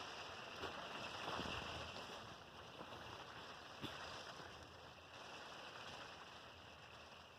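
Wind-driven rain on a travel trailer heard from inside, a steady hiss with a couple of faint ticks.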